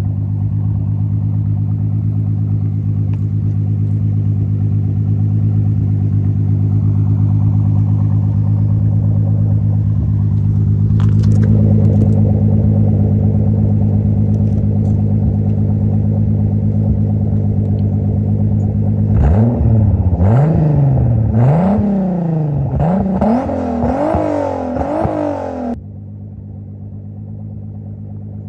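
Turbocharged VR6 engine idling steadily, then revved in a quick series of short blips, each rising and falling in pitch, before dropping back to idle near the end.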